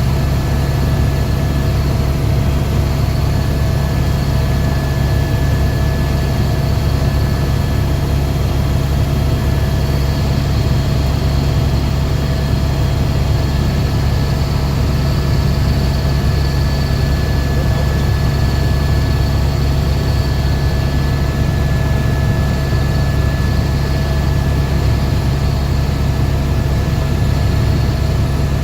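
Helicopter in steady flight: a constant heavy rotor and engine rumble with a steady high whine above it.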